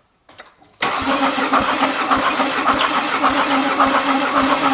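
Starter motor cranking a Mercedes OM651 four-cylinder diesel engine, cutting in suddenly about a second in, with steady, even pulses as the pistons come up on compression. The engine is cranked during a compression test with a gauge in a glow-plug hole, and this cylinder reaches a satisfactory 25 bar.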